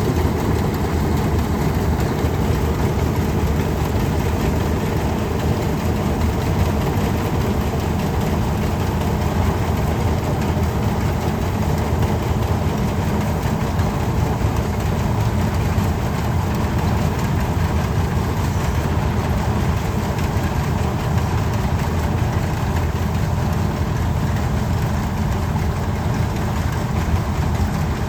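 Tractor engine running steadily at a constant, fairly loud level, with most of its sound in the low range and no changes in speed.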